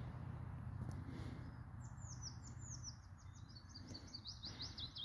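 A small songbird singing: a fast run of short high chirps that begins a little under two seconds in and carries on, over a faint steady low hum.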